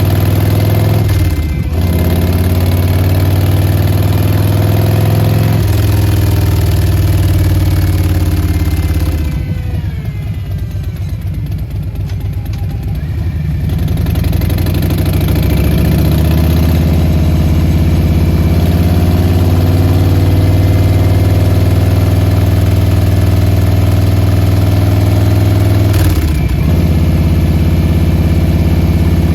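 Harley-Davidson Softail Standard's Milwaukee-Eight 107 V-twin idling through Vance & Hines Short Shots slip-on mufflers. The engine speed shifts briefly a couple of times, and the sound drops to a quieter stretch about ten seconds in before returning.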